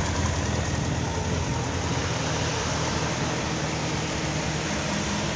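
Steady drone of a workshop exhaust extraction fan. It largely masks a Honda X4's inline-four engine idling evenly after a valve adjustment and carburettor synchronisation.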